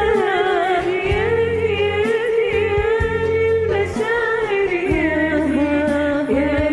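A woman's voice singing a long, ornamented melodic line in an Arabic pop song, over a backing track with bass and regular percussion.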